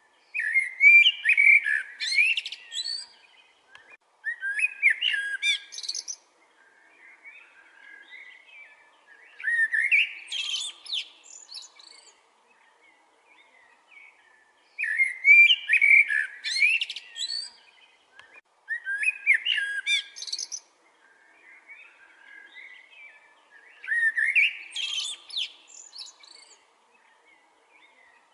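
Songbird singing loud, complex phrases of chirps and whistles, each two to three seconds long, repeated about every four to five seconds, with softer notes in between.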